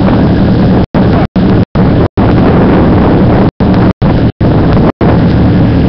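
Rally-raid off-road racing car's engine running steadily at idle, close by. The sound cuts out completely for a split second about eight times.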